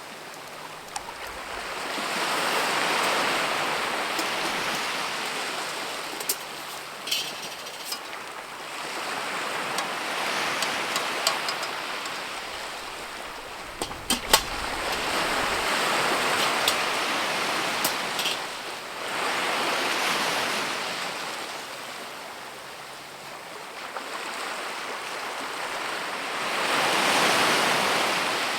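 Outdoor wind blowing in gusts, swelling and fading every few seconds, with a few sharp clicks and cracks.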